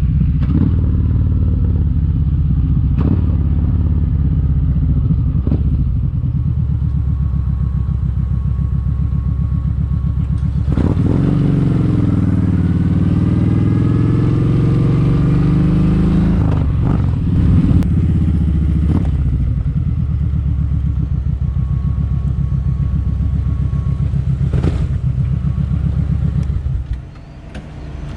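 Kawasaki Vulcan 1700 Vaquero's V-twin engine running under way, with its pitch rising and falling for several seconds around the middle as the bike speeds up. The sound drops off briefly near the end.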